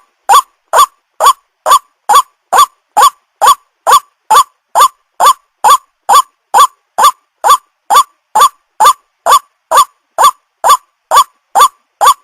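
White-breasted waterhen call: a loud, short rising note repeated evenly a little over twice a second, every note alike, with silence between.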